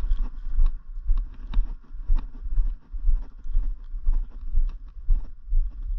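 Footsteps of a person walking at about two steps a second, each step carrying a low thud through the handheld microphone. The steps stop a little after five seconds in.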